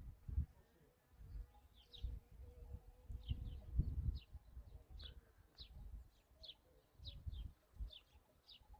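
A small bird chirping over and over in short, high, downward-sliding notes, about two a second. Under it come irregular low rumbling bumps, which are the loudest sound.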